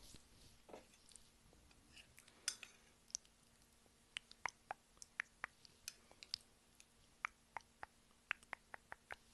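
Close-miked chewing and wet mouth clicks. A string of sharp, irregular clicks comes at two or three a second from about four seconds in.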